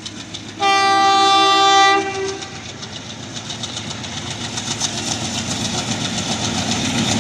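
A MEMU electric multiple-unit train sounds its air horn, one steady blast of about a second and a half. The train's running noise with the clatter of wheels on rail joints then grows steadily louder as it approaches.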